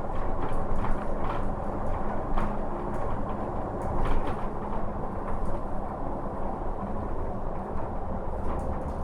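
Scania-chassis city bus running, a steady low engine hum under frequent light clicks and rattles.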